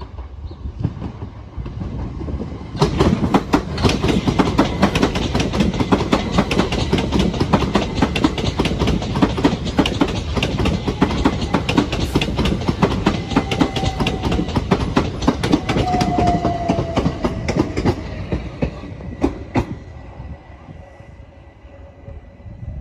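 A Southern Class 377 Electrostar electric train running past the platform, its wheels clattering rapidly over rail joints and points. The clatter comes in loud about three seconds in and fades away around twenty seconds.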